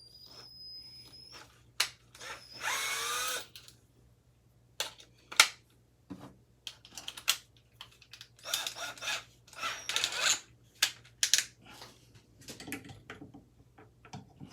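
Power drill run in short bursts on a stubborn ceiling-fan screw: a faint whine in the first second, then a louder burst with a sliding pitch. Clicks and clatter of tools and metal parts follow.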